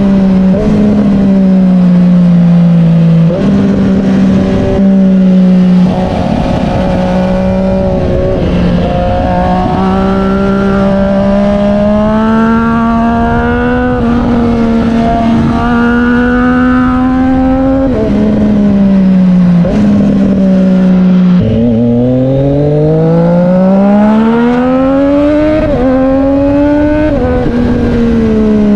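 Triumph Street Triple 765 R's three-cylinder engine through an SC Project S1 exhaust, running at high revs with its pitch held steady for long stretches and dropping suddenly several times. About three-quarters through, the revs fall low and then climb steadily in one long pull before dropping again.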